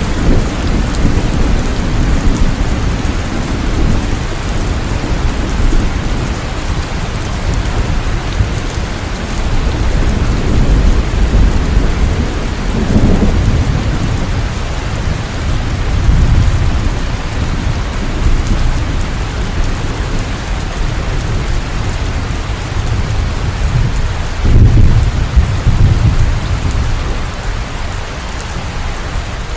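Steady heavy rain, a dense even hiss, with deep rumbles that swell and fade several times, the strongest about 25 seconds in.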